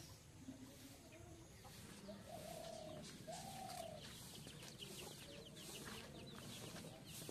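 Faint bird calls: two drawn-out calls between two and four seconds in, over light rustling.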